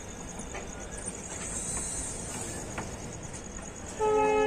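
Passenger train running, a steady rumble with scattered faint clicks. About four seconds in, a locomotive horn starts sounding a loud, steady chord of several notes.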